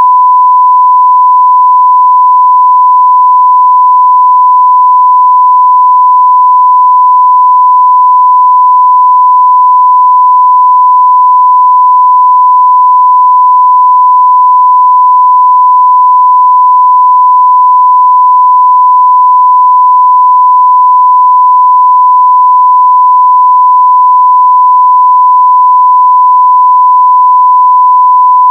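Continuous 1 kHz sine-wave test tone at 0 dB full scale, one steady pure pitch held without change.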